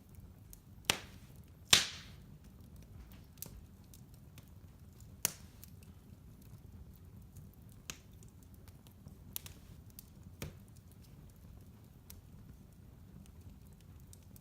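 Fire in a fireplace crackling: scattered sharp pops, the two loudest near the start less than a second apart and smaller ones spread irregularly after, over a low steady rumble.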